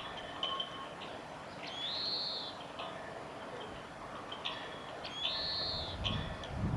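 Oriental greenfinch singing: short twittering notes, with a long drawn-out note that rises and falls, about two seconds in and again about five seconds in. A low rumble comes in near the end.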